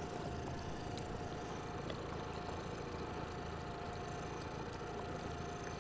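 Boat engine idling steadily, a low even hum with a thin steady whine over it.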